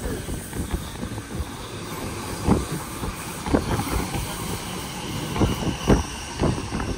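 Narrow-gauge Bernese Oberland Railway train running along the track, a steady rumble broken by sharp clunks every second or so from about two and a half seconds in, as the wheels pass over the rails.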